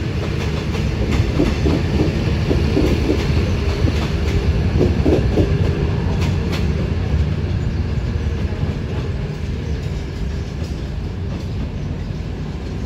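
Locomotive-hauled passenger coaches rolling slowly along the track: a steady low rumble with wheels clicking over rail joints and some short squeals in the first half, easing off slightly near the end.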